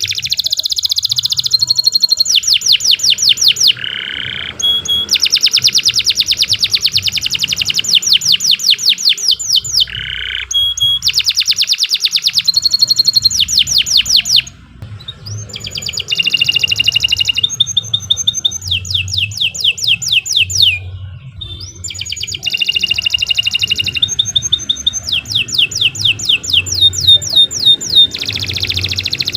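Canary singing a long, loud song of rapid trills, each phrase a fast run of the same high note before switching to another, with short breaks between phrases.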